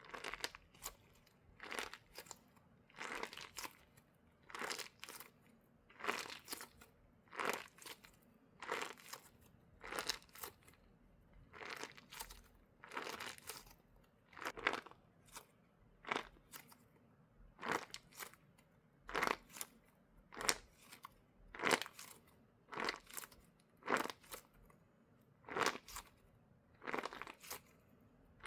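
A crunch squishy toy squeezed over and over, each squeeze giving a short crackly crunch, about twenty in all, one every second or so.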